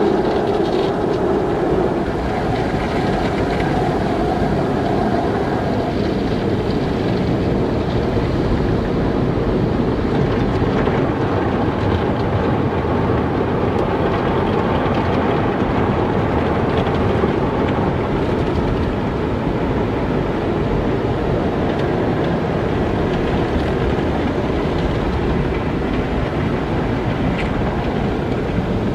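Automatic car wash machinery running: a steady, even rumble with no breaks or changes.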